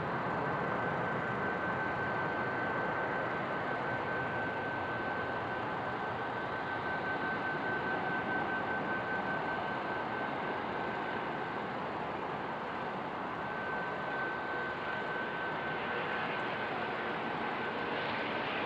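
Jet engines of an Airbus A320-214, its CFM56 turbofans giving a steady roar with a steady high whine.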